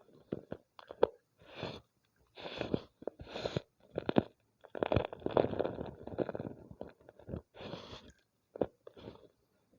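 Homemade gym chalk ball being crushed: a run of separate crumbly crunches, with a few sharp snaps among them.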